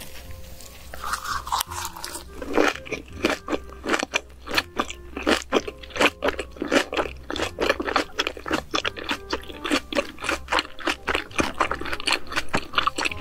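Close-miked chewing of one large mouthful of raw fish sashimi wrapped in lettuce and perilla leaves: crisp, crunchy, wet chewing sounds, several a second, starting about two seconds in.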